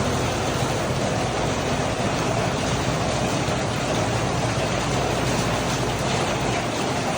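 Heavy rain falling, a dense steady hiss with a low rumble underneath.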